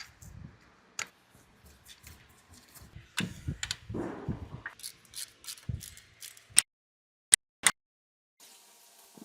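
Hand tools and metal engine parts being handled during engine work: an irregular series of sharp clicks, knocks and clinks with a few dull thuds. Near the middle the background drops out completely while two loud sharp clicks sound.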